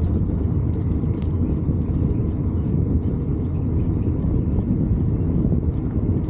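Steady low rumble of wind and road noise on a moving microphone during a bike ride, with faint scattered ticks and rattles.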